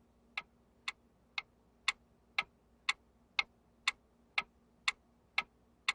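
Clock ticking steadily, about two ticks a second, over a faint steady hum.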